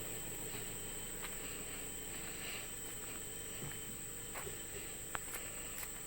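Insects giving a steady, high, unbroken drone, with a few faint clicks.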